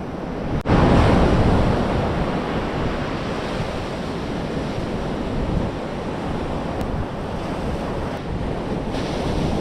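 Ocean surf washing up the beach, with wind buffeting the microphone; a wave swells louder about a second in.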